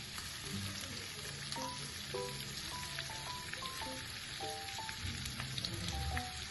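Flour-dredged chicken pieces frying in a pan of hot olive oil and butter: a steady sizzle with many small crackles and pops.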